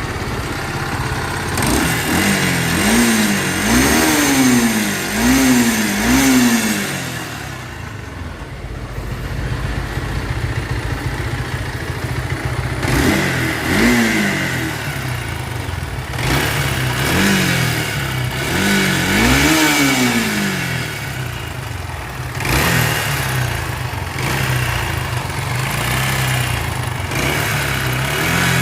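Bajaj Pulsar AS 150 engine running with a steady idle and repeatedly revved in short blips that rise and fall. The engine is faulty, with a grinding noise from inside that the mechanic likens to a mixer machine.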